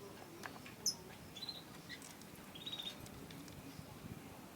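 Lovebird giving a few short, high chirps, with a quick rattling note near the middle.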